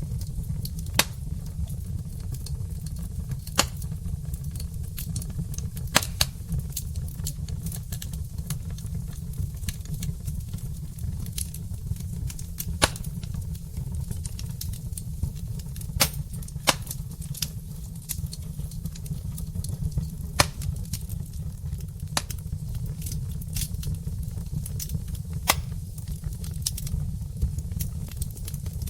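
Burning logs crackling in a fireplace: frequent sharp pops and snaps, about eight of them louder, over a steady low rumble.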